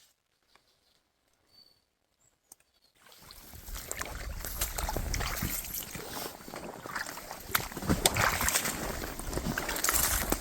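About three seconds of near silence, then a dense wet rustling and sloshing with many small clicks and a low rumble sets in and grows louder: footsteps and gear moving on a wet trail.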